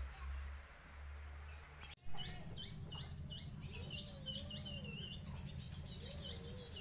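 Pet bird chirping: a rapid run of short, sharp high chirps that starts about two seconds in and keeps going, with a few lower, drawn-out notes among them.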